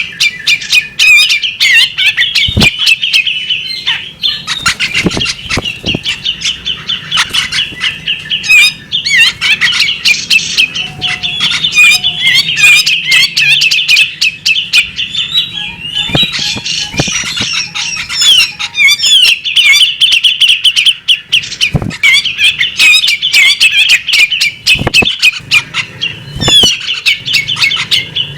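Female magpie robin singing a continuous, rapid chattering song of quick chirps and sweeping notes, with many sharp clicking notes mixed in.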